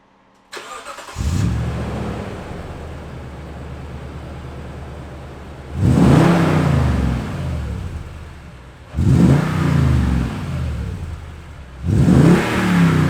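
Toyota Tundra's 5.7-litre V8 through a VR Performance valvetronic catback exhaust, started up: a brief crank, then the engine catches with a flare about a second in and settles to idle. It is then revved three times, each rev rising sharply and falling back, about three seconds apart.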